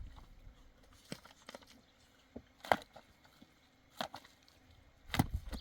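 A few sharp, separate knocks, about five spread over several seconds, the loudest a little before the middle.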